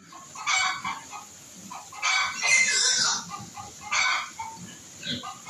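Rooster crowing, with chickens clucking in the gaps: three loud calls, the middle one about a second long.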